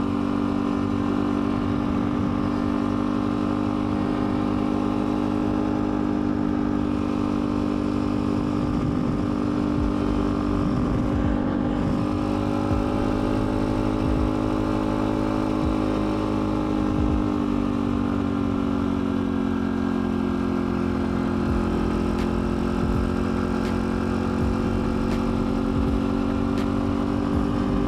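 Pit bike engine running at a steady cruising speed while riding; its pitch eases down a little about two-thirds of the way through, then comes back up.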